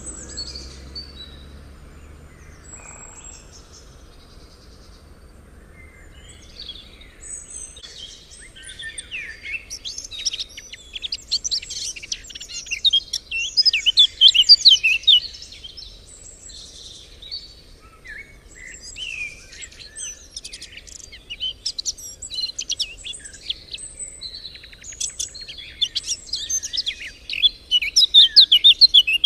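Songbird singing in long, rapid, varied runs of high chirps and trills. It is quiet for the first few seconds, then sings loudest about halfway through and again near the end.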